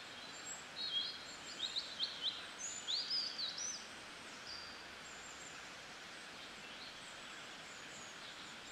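A bird chirping: a quick run of short, high, rising whistled notes in the first half, over a steady outdoor hiss.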